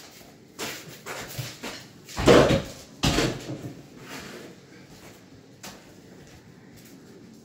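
Wooden cabinet being handled during installation: a few separate knocks and thumps, the heaviest about two seconds in.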